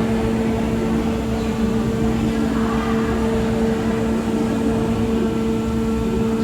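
Steady machine hum with two constant tones over a low rumble, as heard inside the Ocean Express funicular car.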